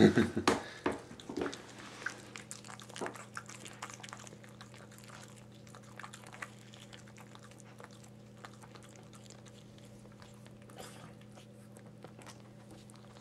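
Bichon Frise mother dog licking and chewing at a newborn puppy's birth sac: a run of small wet clicks and smacks, busiest in the first couple of seconds, over a faint steady hum.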